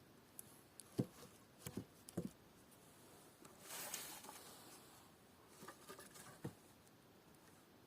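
Faint scattered light knocks and clicks, a few in a cluster near the start and more near the end, with a brief soft rustle in the middle.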